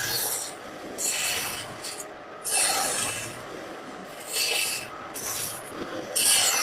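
Piece of wood being worked by hand with an abrasive, rubbed in about five separate scraping strokes at uneven intervals of one to two seconds.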